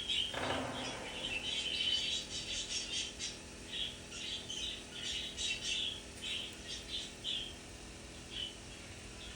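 Young budgerigar giving a long run of short, scratchy chirps and squawks that thin out toward the end. A brief muffled noise sounds about half a second in.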